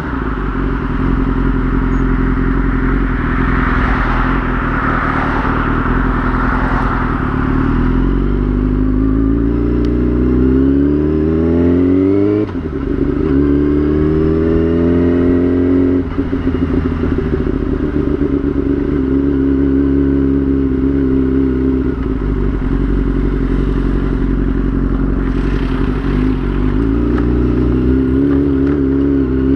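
A 2003 Yamaha YZF-R6's inline-four engine under way. It revs up through the gears, the pitch rising and dropping sharply at two upshifts partway through, then holds at a steady speed. Wind rushes over the microphone in the first few seconds.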